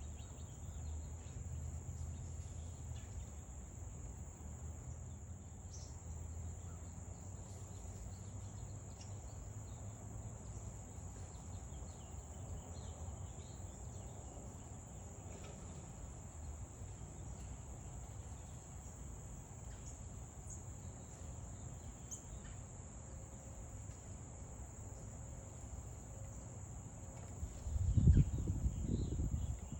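Steady high-pitched chorus of crickets or similar insects, with a few faint bird chirps over a low rumble. A louder burst of low rumbling comes near the end.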